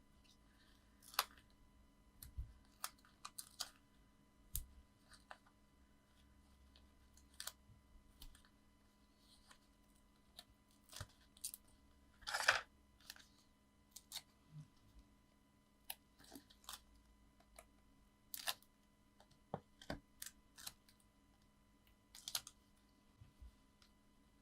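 Paper-crafting handling sounds: scattered light taps, clicks and rustles of card and paper being handled and pressed together, with one louder rustle about halfway through.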